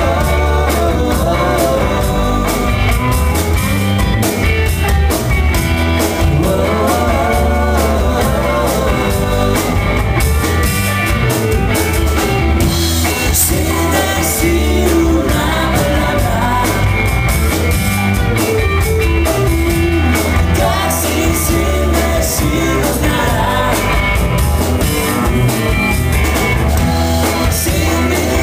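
Rock band playing a song, with electric guitar and drums.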